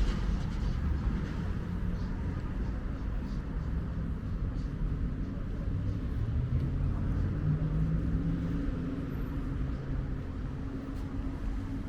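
A motor vehicle's engine running close by, its pitch rising about halfway through, over a steady outdoor rumble.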